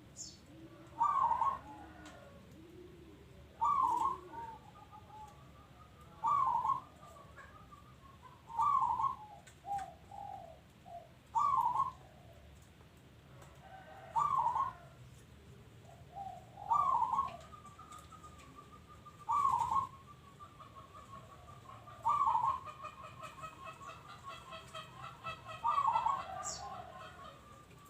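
Zebra dove (perkutut) cooing in repeated phrases, about ten of them, one roughly every two and a half seconds, each a loud note followed by a trail of softer ones; near the end the trailing notes run on as a faster rapid string.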